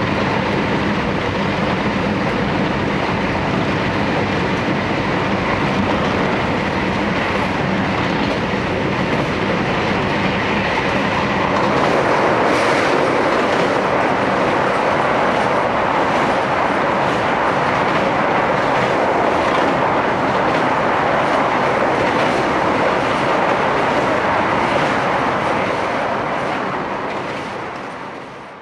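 Running noise heard inside the carriage of a JR Hokkaido Series 711 electric train at speed: a steady rumble of wheels on rail, with faint clicks over the rail joints. The sound fades out near the end.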